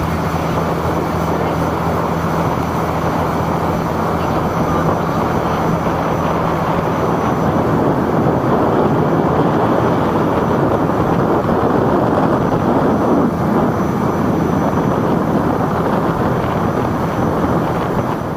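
Taxi boat's engine running steadily under way, with a low hum under a dense rushing of water and wind. The rush swells about halfway through, and the level drops suddenly at the very end.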